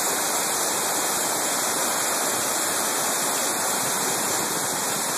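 Steady rushing of a mountain brook's waterfall, an even wash of water noise with no break.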